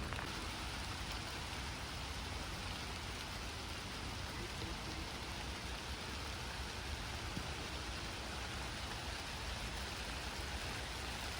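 Rain falling steadily, an even hiss of drops with no breaks.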